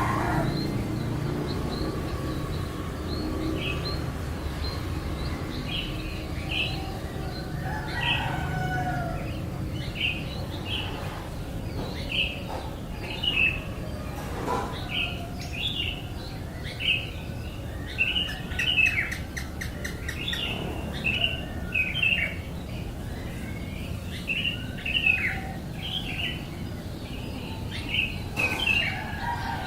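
Birds chirping: many short, high chirps, sparse at first and coming thick and fast through the second half.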